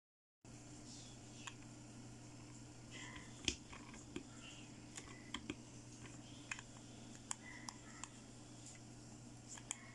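Scattered light plastic clicks and taps from a pink plastic toy thermometer being handled and pressed against a plastic baby doll, over a steady low hum; the loudest click comes about three and a half seconds in.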